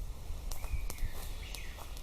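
Small birds chirping in woodland, with scattered sharp crackles or snaps.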